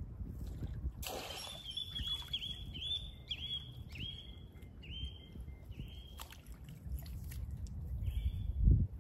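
A bird calling a run of short rising notes, about two a second, for several seconds, then once more near the end. Under it is a low rumble, with a dull thump near the end.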